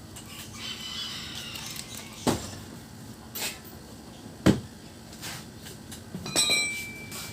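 Two sharp knocks about two seconds apart, then a clattering metal clink near the end that rings on briefly.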